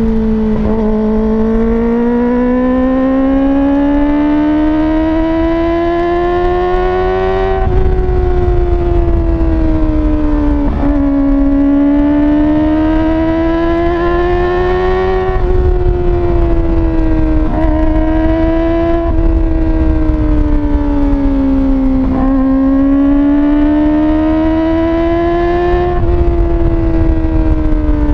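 Kawasaki ZX-25R's 250 cc inline-four through an Akrapovic slip-on exhaust with no dB killer, running at high revs with a high wail. Its pitch climbs and falls back several times over a few seconds each, with a quick dip twice.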